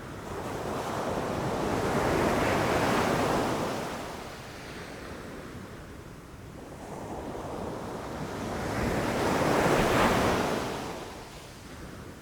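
Ocean waves rushing and crashing: two waves swell up and die away, one about two to three seconds in and a slightly louder one about ten seconds in.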